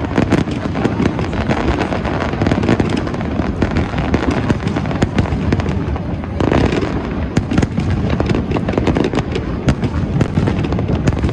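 Aerial fireworks display: dense crackling and rapid pops of gold crackle stars over a continuous rumble of shell bursts, with a heavier boom about six and a half seconds in.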